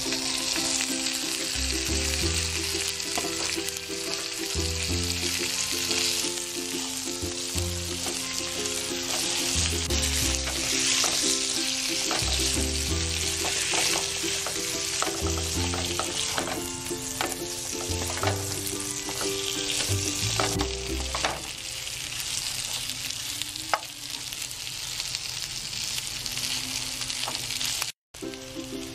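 Sliced beef liver and onions sizzling in oil in a nonstick frying pan, stirred with a spatula that gives occasional light scrapes and taps. Background music plays underneath, and the sound cuts out for a moment near the end.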